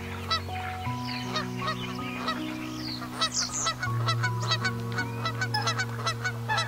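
Geese honking in quick, repeated calls, several a second and busier in the second half, over gentle background music with long held low notes.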